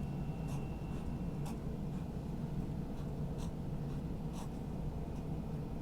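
A drawing tool scratching short strokes on paper, about one stroke a second, over a steady low hum.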